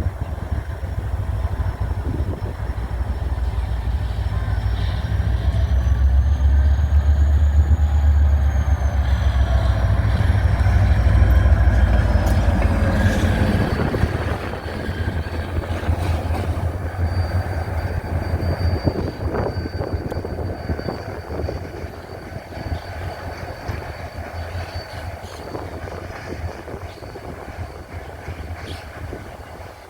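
GT22 diesel-electric locomotive running with a train, its deep engine rumble growing to a peak about twelve seconds in and then easing off as it moves away. A faint high squeal rides above it.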